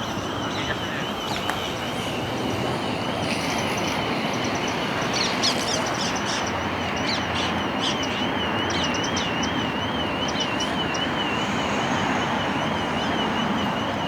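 Steady hum of distant city traffic, with small birds chirping, most thickly from about five to ten seconds in. A thin, high warbling tone wavers on throughout.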